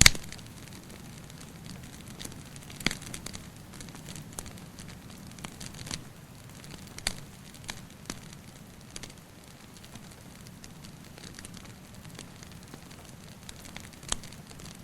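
Wood fire crackling: irregular sharp pops and snaps, the loudest right at the start, over a steady low rushing noise.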